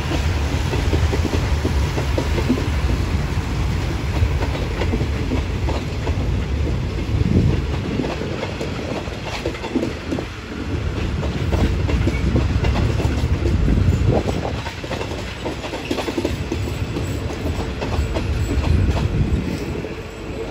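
Passenger coaches of a diesel-hauled train rolling past as it pulls in to stop, the wheels clacking irregularly over rail joints above a steady low rumble.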